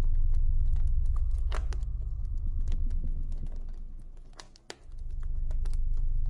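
Campfire crackling with frequent sharp pops over a steady low rumble, which drops away briefly about four and a half seconds in and then returns.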